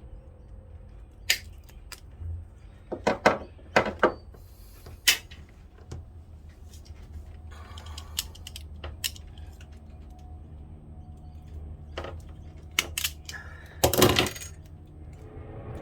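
Metal hand tools and metal parts clinking and knocking together: a dozen or so sharp, irregular clinks, some in quick pairs, the loudest cluster about fourteen seconds in, over a faint low hum.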